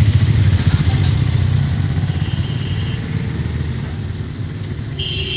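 A vehicle engine running steadily with a low rumble that eases off slightly over the few seconds.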